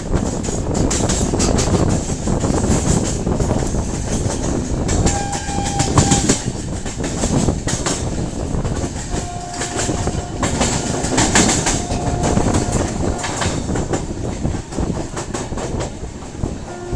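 Train running on the rails: steady rumble with rapid clicking of wheels over rail joints. A steady high tone sounds briefly about five seconds in and again for about four seconds from around nine seconds.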